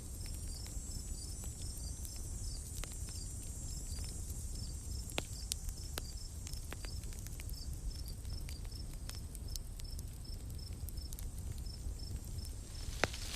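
Campfire crackling with a few sharp pops, the loudest near the end, over a low steady rumble, while a cricket chirps in an even repeating rhythm and insects hiss high in the background.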